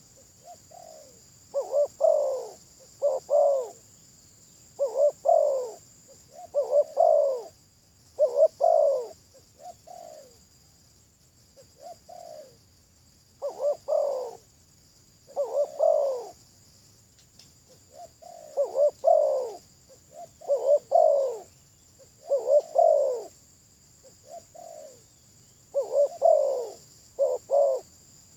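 Spotted dove cooing: short, low, falling coo notes repeated in groups of two to four, with brief pauses between the phrases. A faint steady high-pitched drone runs underneath.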